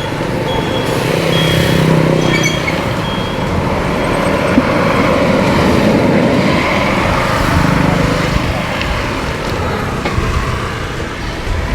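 Road traffic with a heavy vehicle's engine and tyres going by close, swelling over the first couple of seconds and easing off near the end. Short high beeps repeat about twice a second in the first three seconds.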